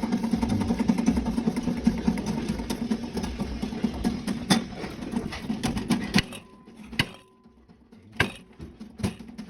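A machine running with a steady hum and a fast pulsing rhythm, stopping about six seconds in; after it, a few sharp knocks.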